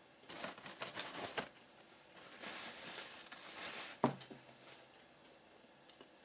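Close-miked chewing of a bagel, with a run of wet crackly bites in the first second and a half. Then a paper napkin rustles for about two seconds, ending in a sharp click about four seconds in, followed by a short low hum.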